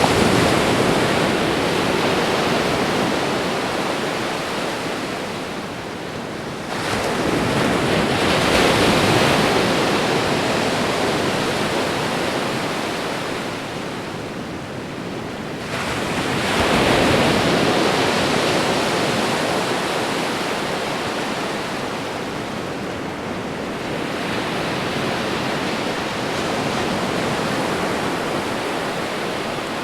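Ocean surf: waves breaking and washing up the shore. Each break swells suddenly and then fades slowly, three strong ones and a weaker one, roughly every seven to nine seconds.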